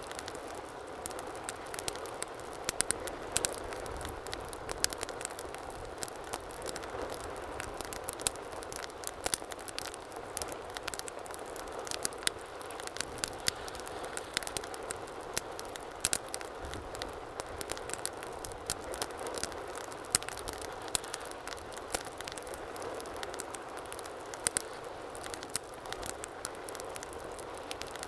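Wood fire burning in a fireplace: a steady soft hiss of flames with frequent irregular sharp crackles and pops.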